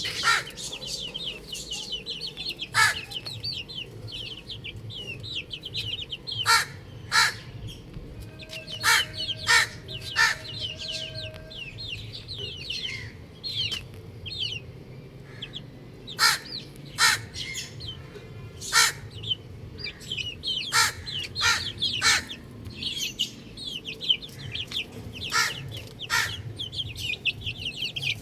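Baby chicks peeping continuously, a dense chorus of short, high, falling chirps. Loud sharp clicks or taps break in every second or two.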